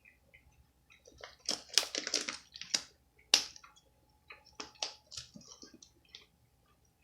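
Close-up eating sounds from a mukbang: a run of sharp crackling clicks and crunches, heaviest about a second and a half to two and a half seconds in, with one loud click around three and a half seconds and smaller ones after.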